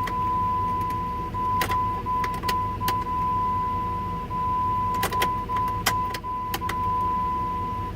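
Ignition key of a 2002 Jeep Grand Cherokee clicking several times as it is turned back and forth to call up trouble codes, with no engine cranking. Throughout, a steady high-pitched electronic warning tone runs with tiny regular breaks.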